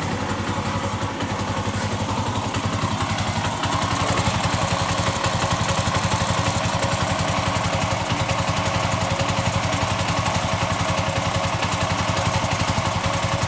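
Honda CB100 single-cylinder four-stroke engine fitted with a Yamaha Mio Sporty cylinder head, running steadily with an even exhaust beat. It gets a little louder about three and a half seconds in.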